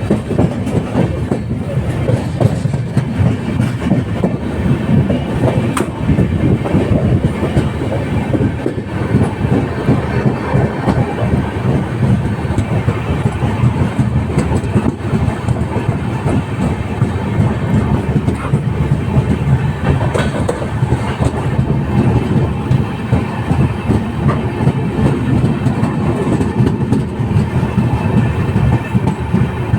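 LHB passenger train coaches running along the track: a loud, steady rumble with the wheels clattering on the rails.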